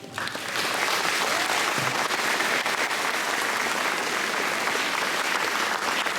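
Audience applauding steadily, a dense crowd of hand claps starting just as a song ends.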